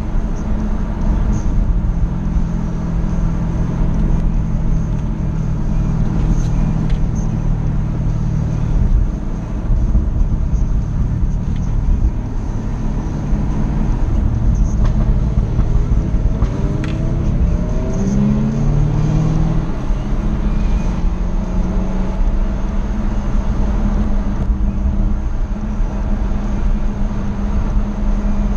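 Jaguar F-Type SVR's supercharged V8 running hard on a twisty road, a steady engine drone with road rumble; about halfway through the engine note rises and changes pitch over a few seconds as it revs through a shift.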